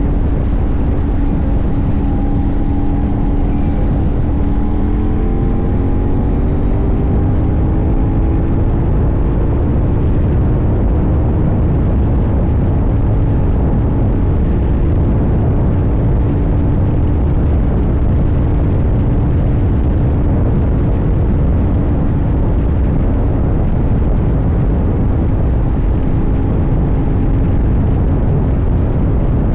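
CFMoto 800NK's 799 cc parallel-twin engine running under way with steady road noise; its pitch climbs gently between about four and eight seconds in, then holds at a steady cruising speed.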